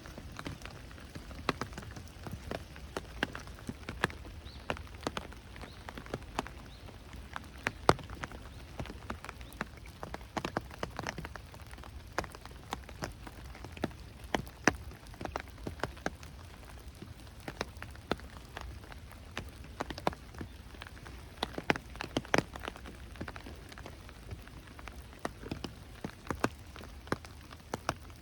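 Steady rain falling, with many sharp drops tapping close by at irregular intervals.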